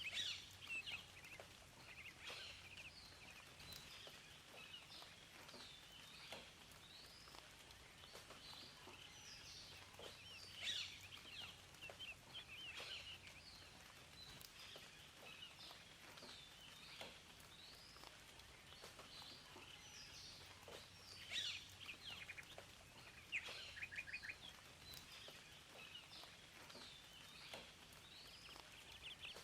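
Several wild birds singing and calling at once, with short chirps and rapid trills overlapping throughout, over a faint steady background hiss.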